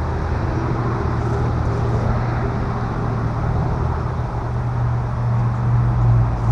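Steady road traffic: a low engine rumble with tyre noise, the rumble growing a little stronger near the end.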